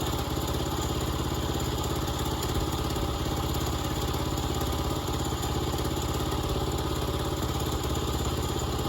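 Portable sawmill's small gasoline engine running steadily at an even speed.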